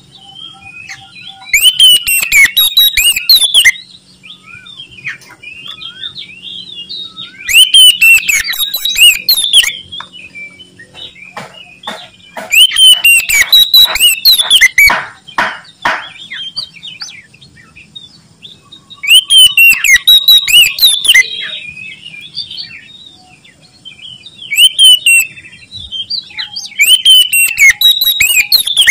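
Oriental magpie-robin (kacer) singing loudly in about six bursts of a few seconds each, a varied song of whistles and rapid chattering notes, with quieter phrases between the bursts.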